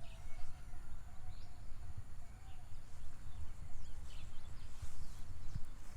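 Birds chirping with short scattered calls, over a low, uneven rumble.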